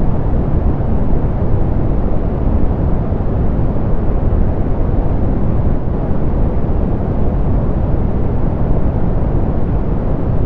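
Steady, unbroken soft pink noise: an even hiss weighted toward the low end, with little above the upper treble.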